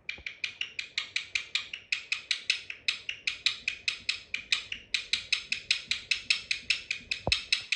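A parrot giving a rapid run of short, sharp chirps, about five a second, evenly repeated for several seconds.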